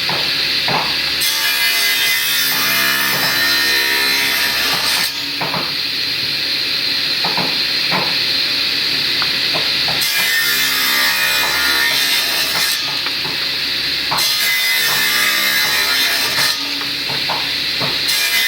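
Power woodworking machine cutting wood for wooden door bolts, with a hissing cut that comes and goes every few seconds as passes are made.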